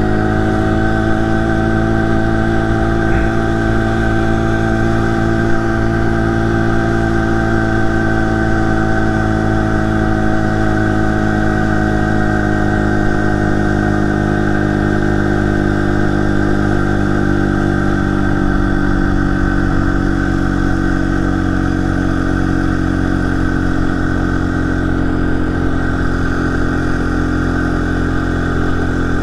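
A 49cc four-stroke motorized bicycle engine running steadily under way. Its pitch climbs in the first couple of seconds, holds, then eases a little lower in the second half.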